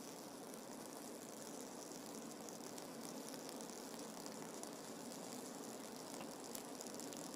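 Faint steady hiss of room tone, with a few tiny ticks.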